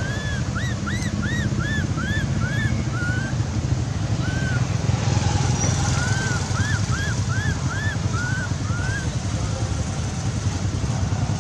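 Two runs of short, high, arched chirping calls, about three a second, from a small animal, over a steady low rumble like traffic.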